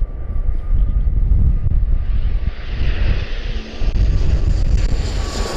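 Airliner coming in low overhead to land: the engines' hiss and whine swell from about two seconds in, over heavy wind rumble on the microphone.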